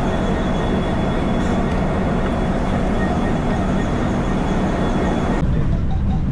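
Steady running noise of a passenger train, a rumble with a faint high whine over it. The sound changes abruptly a little after five seconds in.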